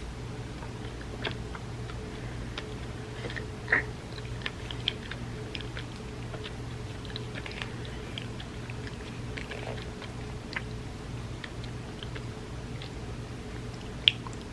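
Close-miked chewing and wet mouth sounds of eating creamy rice pudding: many small soft clicks, with a sharper click about four seconds in and another near the end, over a steady low hum.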